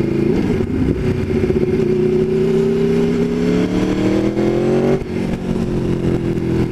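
Aprilia Tuono V4 1100 Factory's V4 engine under way, its note rising steadily as the bike accelerates, then dropping abruptly about five seconds in and carrying on at a lower, steady pitch.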